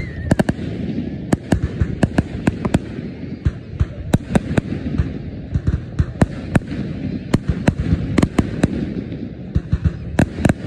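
Fireworks display: aerial shells bursting in a rapid, irregular string of sharp bangs, several a second, over a continuous low rumble.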